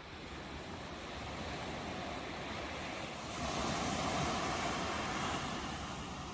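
Ocean waves washing in, a steady hiss that swells louder a little past halfway as a wave breaks, then eases.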